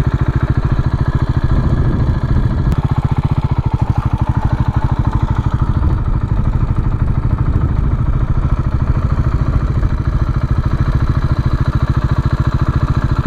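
Motorcycle engine idling with a steady, rapid pulsing beat.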